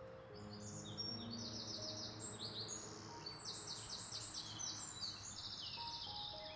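Small birds chirping in quick repeated trills, over soft background music with long held notes.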